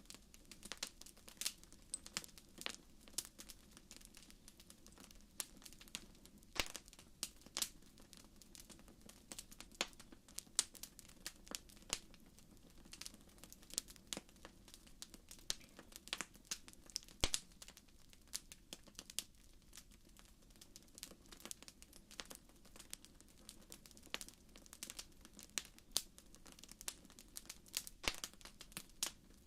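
Wood fire crackling in a fireplace: irregular sharp pops and snaps, sometimes several close together, over a faint steady low rumble.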